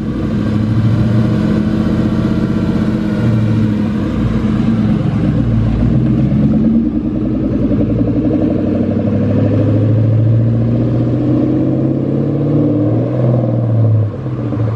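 Ford Mustang's engine held at high revs as a first-time manual driver pulls away on a slipping clutch, which the owner says burned the clutch. The steady engine note climbs in pitch near the end, then drops away suddenly.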